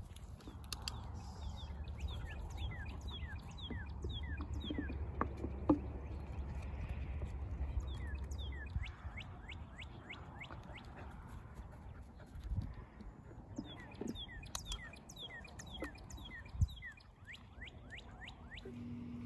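Songbirds chirping: many short calls, each sliding down in pitch, in quick repeated runs. A low rumble fills the first half, and two sharp knocks stand out, one about six seconds in and one near the end.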